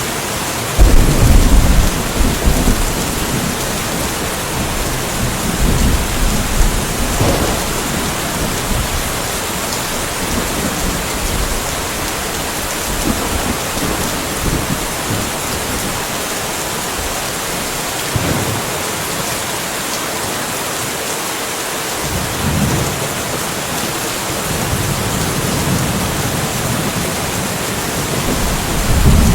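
Steady rain with thunder: a sudden loud, deep thunderclap about a second in that rolls off over a couple of seconds, then quieter rumbles of thunder several times over the rain's even hiss.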